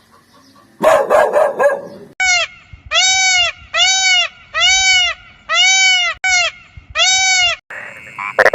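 Animal sound effects: a short bark-like burst about a second in, then a run of seven identical calls, each rising and falling in pitch, repeated at an even pace. A high steady tone with rapid pulsing comes in near the end.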